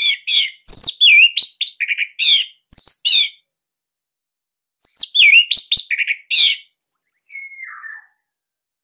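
Orange-headed thrush singing: two rapid phrases of varied, sweeping whistled notes with a pause of about a second and a half between them.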